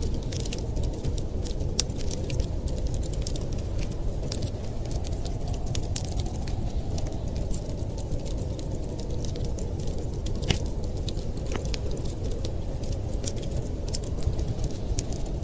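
Fire crackling, with frequent sharp snaps and pops over a steady low rumble; one louder crack about ten seconds in.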